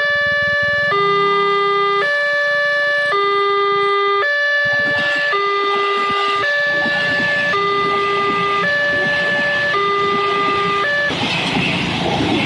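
Electronic warning alarm of a railway level-crossing barrier sounding two tones that alternate high and low about once a second, signalling an approaching train. About 11 seconds in it stops and a broad rushing noise takes over.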